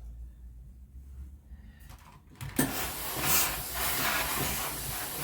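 Steam iron releasing a burst of steam, a loud even hiss that starts suddenly with a click about halfway through.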